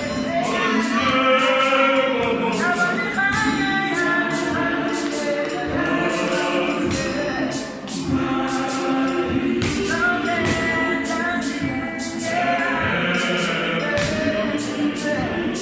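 Gospel choir singing in harmony, male and female voices together, over a steady percussion beat of about four strikes a second.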